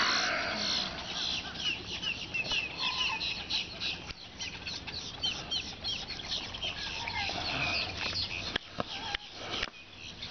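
Birds chirping, many short rising-and-falling calls several a second, with a few sharp clicks near the end.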